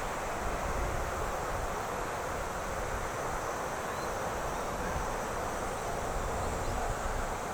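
Strong wind blowing across the microphone: a steady rushing with a gusty low rumble underneath.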